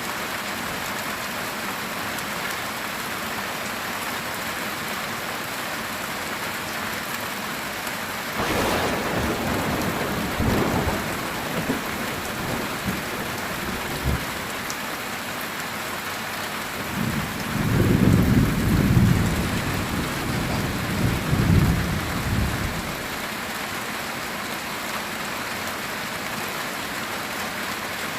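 Heavy rain falling steadily on a metal tin roof. Thunder cracks about eight seconds in and rumbles for several seconds, then a louder, deeper rumble of thunder rolls through the second half before fading back to the rain.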